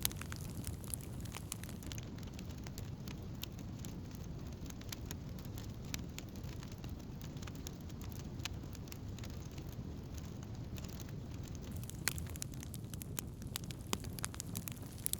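Wood campfire crackling: irregular sharp snaps and pops over a steady low rumble of the flames, the snaps coming more often near the end.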